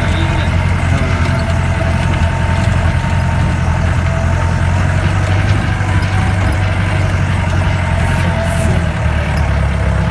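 Motor vehicle engine running steadily under load, its low note dropping about nine seconds in.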